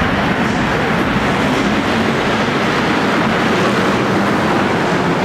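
Several stock car engines running hard as the cars race around the arena track, a dense, steady noise with no let-up.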